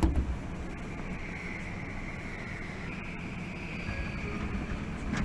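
Tokyu 8500 series electric train running, heard from inside the car as it approaches a station stop: a steady low rumble with a knock right at the start and a high whine from about a second in.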